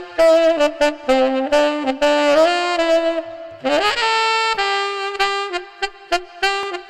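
Selmer Super Action Series 2 tenor saxophone playing a melody of short, separate notes, with an upward slur about halfway through into a longer held note.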